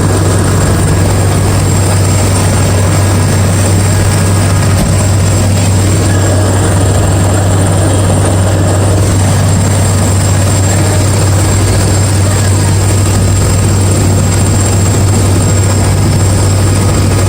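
Helicopter running steadily, its rotor and turbine giving a constant low drone over a wash of noise, with no change in pitch.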